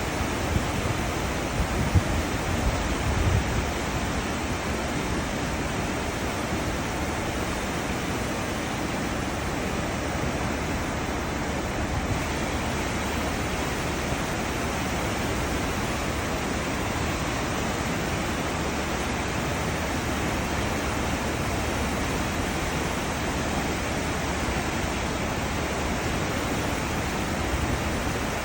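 Cruise ship's wake: a steady, even rush of churning sea water, with a few low thumps in the first few seconds.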